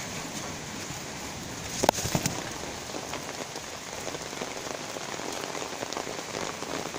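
Steady rain falling in a thunderstorm, with a couple of sharp knocks about two seconds in.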